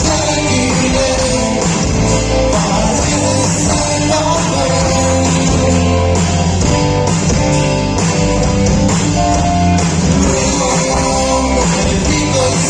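Rock band playing live: guitar, bass and drums, with a singer's voice over them.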